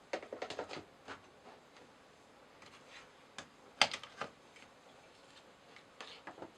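Scattered light clicks and knocks of small hard parts being handled during assembly, a cluster in the first second and one sharp click a little under four seconds in.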